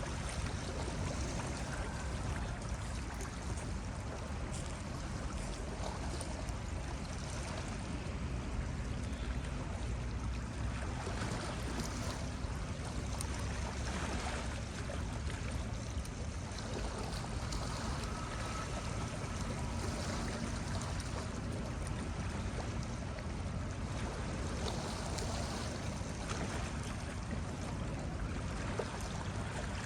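Ocean surf washing on a beach: a continuous, even rush of breaking waves.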